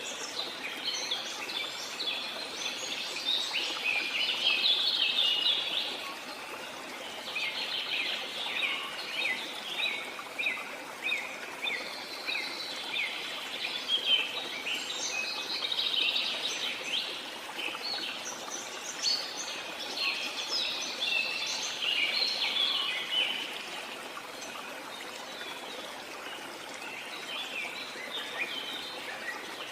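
Birds chirping rapidly in long, dense bouts over a steady rush of running water, with brief lulls where only the water is heard.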